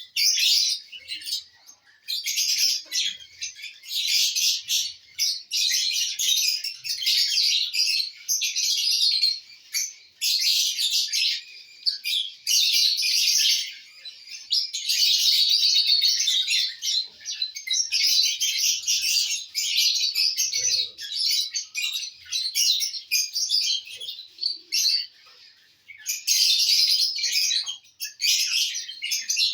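Lovebirds chattering with rapid, high-pitched chirps in bouts of a second or two, with short breaks between them.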